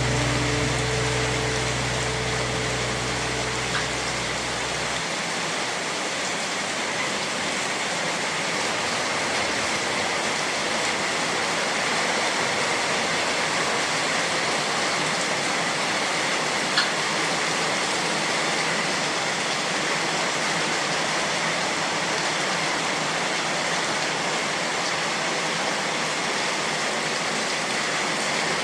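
Steady rain falling, an even hiss throughout, with one brief tick about two-thirds of the way through. Low background music tones carry on for the first few seconds, then stop.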